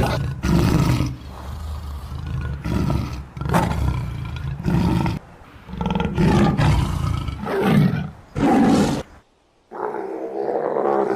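A big cat roaring in a series of deep, repeated calls. About nine seconds in there is a brief silence, followed by a different, steadier pitched animal call.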